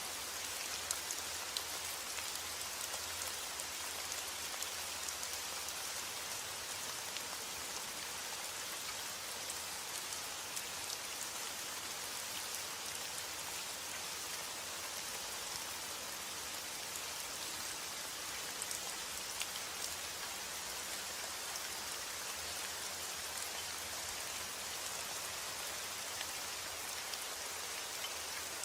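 Steady rain falling, an even hiss strongest in the high register with scattered individual drop ticks.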